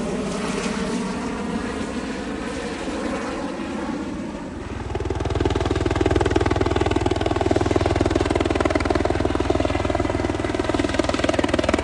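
Medical helicopter running: steady engine and rotor noise with a whine of several tones. It grows louder and deeper about four and a half seconds in, as a strong low rumble comes in and holds.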